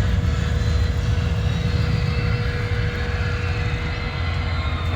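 Chevrolet LS V8 engine idling steadily, a loud low rumble with a faint steady whine over it.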